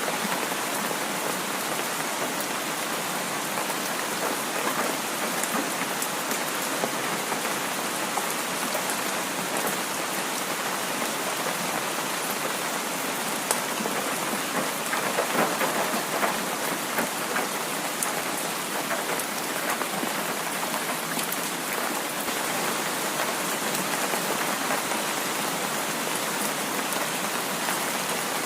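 Heavy rain falling steadily, with scattered single drops ticking through it and a brief swell about halfway through.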